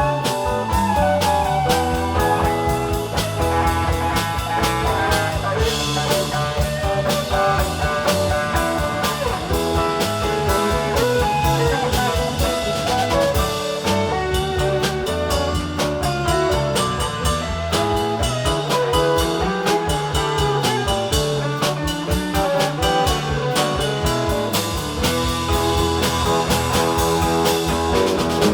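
Live rock band playing an instrumental jam with electric guitar, bass and drum kit in a steady beat.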